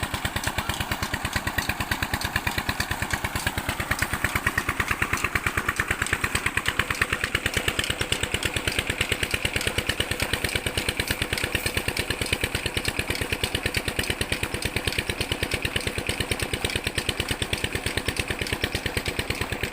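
Diesel engine driving a tube-well water pump, running steadily with an even, rapid beat of firing strokes.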